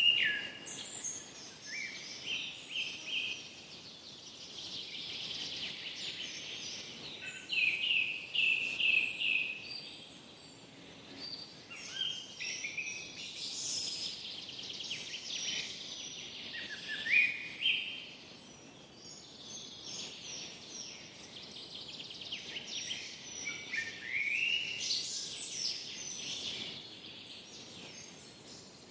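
Forest birdsong: several songbirds singing short, overlapping phrases and trills, some rising in pitch, over a faint steady background hiss.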